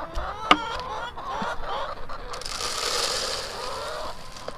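Chickens clucking and chattering in several overlapping short, wavering calls, with a sharp click about half a second in and a stretch of scratchy rustling noise through the second half.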